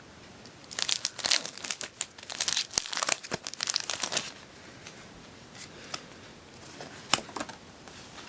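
Foil wrapper of a Pokémon Emerging Powers booster pack being torn open and crinkled, a dense run of crackling from about one second in to about four seconds, then a few lighter rustles and one sharp crackle near the end.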